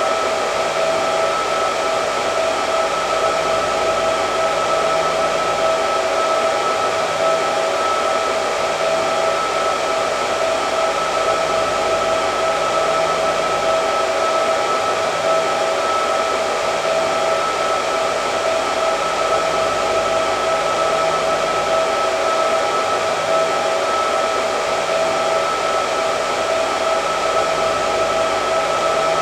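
Hair dryer running continuously, a steady rush of air with a constant whine from its motor and fan.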